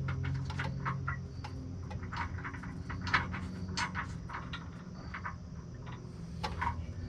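A run of irregular light clicks and ticks from hands-on work under the Jeep, over a low steady hum.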